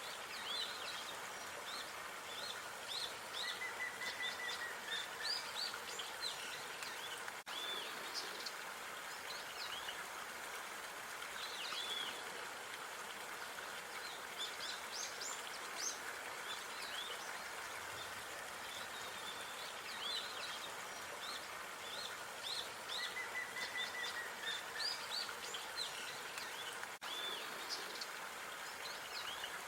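Small birds chirping and whistling in quick short calls, with now and then a brief trill, over a steady hiss of outdoor background noise.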